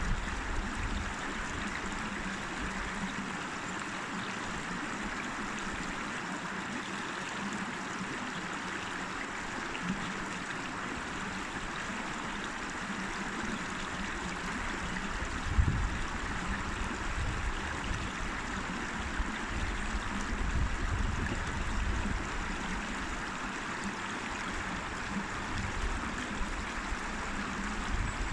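River water flowing, a steady rushing, with a few brief low rumbles mixed in, the strongest about halfway through and near the end.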